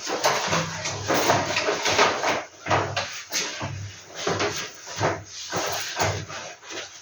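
Paper movie posters being handled, with irregular rustling and rubbing and a few soft knocks.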